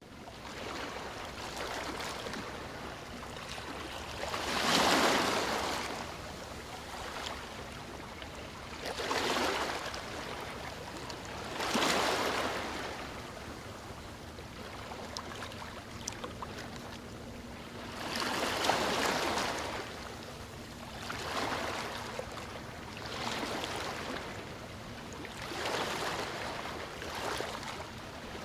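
Sea waves breaking and washing on the shore, in swells of rushing surf every few seconds over a steady wash.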